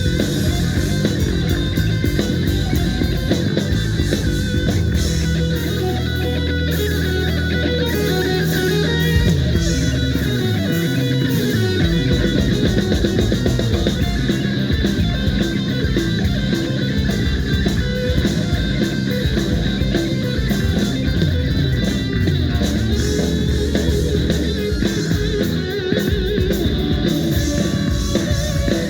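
Live rock band playing an instrumental passage with electric guitar and drum kit.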